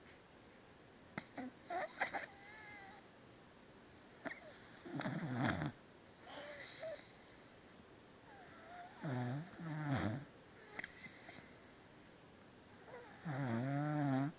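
Sleeping beagle snoring: several snores, about every four seconds, some with a buzzing nasal tone, the longest near the end.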